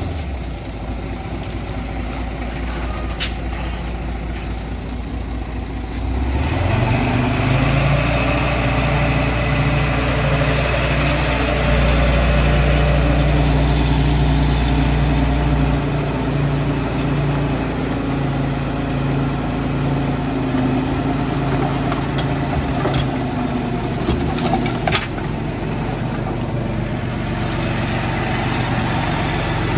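Heavy diesel engine of earthmoving machinery running, revving up about six seconds in and holding hard under load for several seconds before easing back. A few sharp metallic knocks come through over it.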